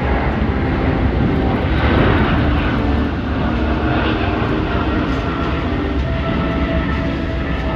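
Loud, steady rumble of a large vehicle running, with a few held tones over it.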